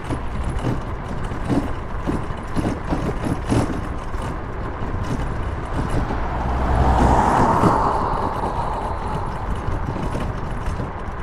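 Road traffic and wind noise heard while riding along a city road. A louder vehicle sound swells up to a peak about seven seconds in and then fades away.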